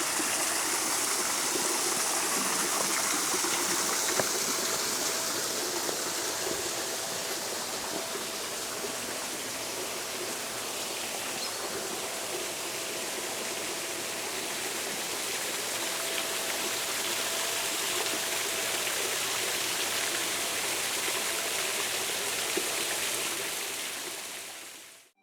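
Water running in a garden stream, a steady rush of flowing, splashing water that fades out near the end.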